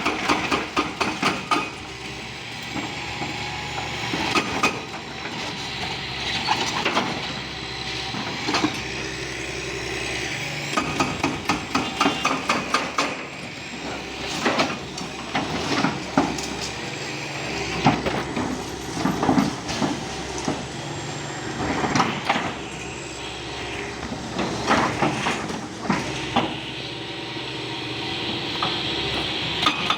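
Demolition hammering: bursts of rapid blows every few seconds, with a steady noise underneath.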